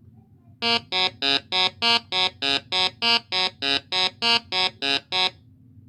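Peacock giving a rapid series of short, harsh honking calls, about three a second, some sixteen in all, stopping shortly before the end.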